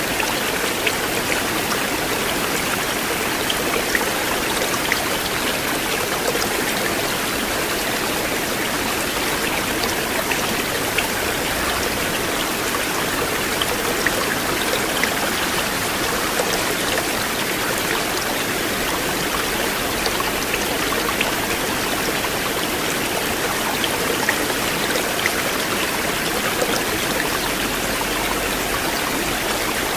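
Flowing river water, a steady rushing and babbling with small splashes and drips scattered throughout.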